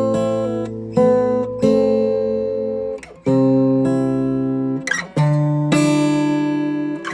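Slow acoustic guitar music: strummed chords that ring out and fade, with a new chord every second or two.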